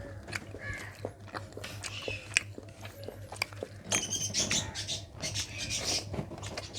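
Close-up eating sounds: chewing mutton curry and rice, with wet smacks and clicks of the mouth. A steady low hum runs underneath, and a bird chirps a few times outside.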